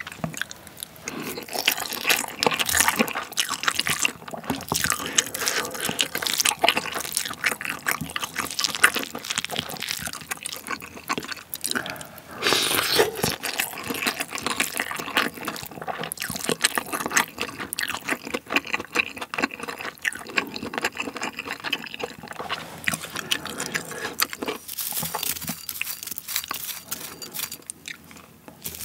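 Close-miked wet chewing of rice mixed with marinated blood cockles and sauce, with sticky mouth clicks. A wooden spoon stirs the rice in a ceramic bowl.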